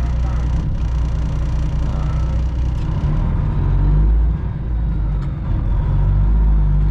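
Straight-piped Detroit diesel engine of a Freightliner Classic XL semi truck running steadily, heard from inside the cab as a deep, even rumble with road noise; the level dips briefly about four seconds in.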